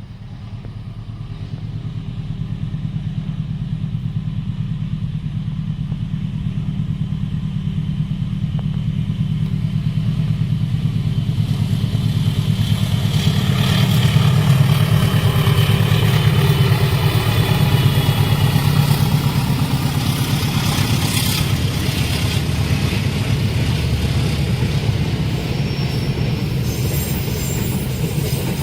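Diesel-hauled train approaching and passing at a level crossing: a deep engine drone that builds up over about a dozen seconds, is loudest around the middle with rumble and clatter from the wheels, then eases off slightly.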